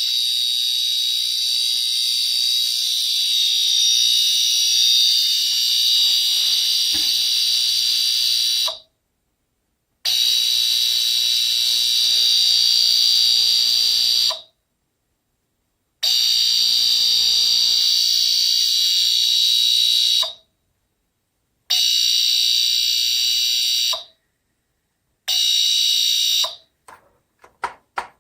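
Loud, high-pitched electronic alarm tone sounding in five long blasts, each shorter than the one before, with short silences between them, followed by a few faint clicks near the end.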